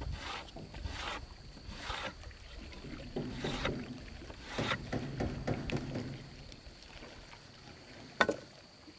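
Water swishing and splashing in repeated strokes, roughly one a second, then quieter, with a single sharp knock near the end.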